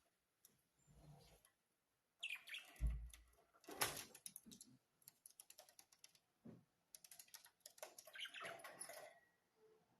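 Pet budgerigars chirping and chattering softly, mixed with rapid clicks and taps, with a dull thump about three seconds in.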